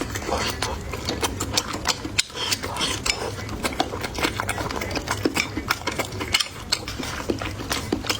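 Close-miked chewing of crunchy food: a steady run of small crackles and clicks.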